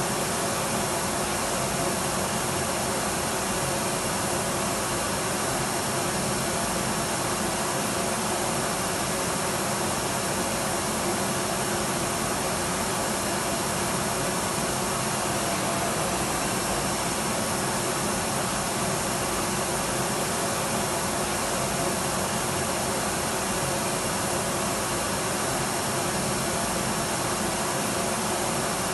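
Electric vacuum cleaner running continuously at one steady pitch and level, a constant rushing hum.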